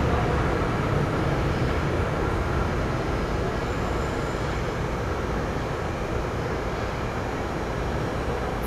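SEPTA Regional Rail electric train running away down the tunnel, a steady low rumble that slowly fades.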